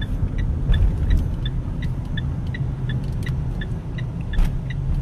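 Mitsubishi Pajero driving on the road, heard from inside the cabin as a steady low rumble. A short electronic beep repeats evenly about three times a second over it.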